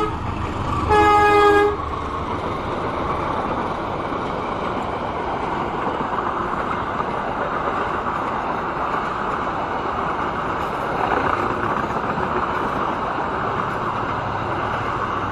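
Train horn sounding one short toot about a second in, then the steady rolling noise of the train's carriages running past on the rails.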